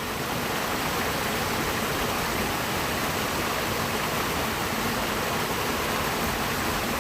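Steady rush of a waterfall, an even unbroken noise of falling water.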